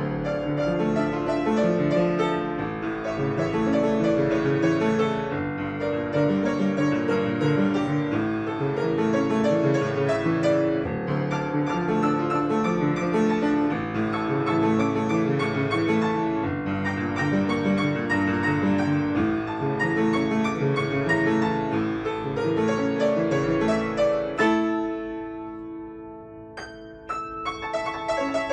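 Solo piano playing a flowing melody over a running accompaniment. Near the end a chord is held and left to fade for a couple of seconds, then the playing picks up again.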